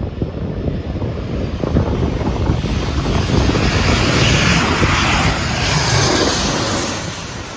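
An airliner's engines passing low overhead, swelling to a loud peak about two-thirds of the way through and then fading, with wind buffeting the microphone throughout.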